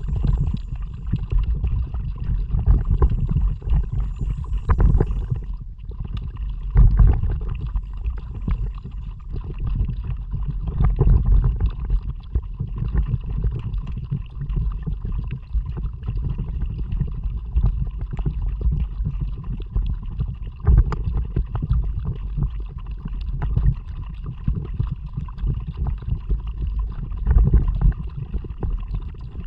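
Water and wind noise around a kayak under way, picked up by an action camera's microphone: a muffled, low rumbling wash that surges irregularly, with gurgling water.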